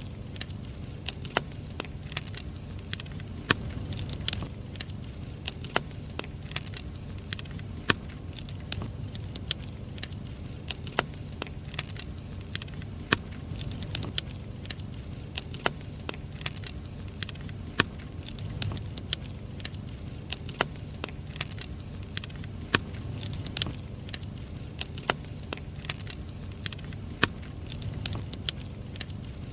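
Firewood burning in a campfire, crackling with irregular sharp pops and snaps over a low, steady rumble.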